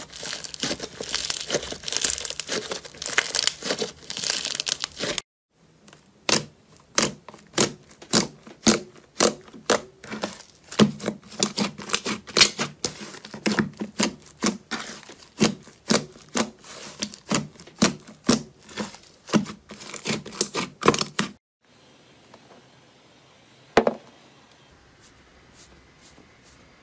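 Slime being squeezed and stretched, with a dense crinkly crackle for the first few seconds. Then comes a run of sharp pops and clicks, several a second, which stops suddenly and leaves a quiet stretch with a single click.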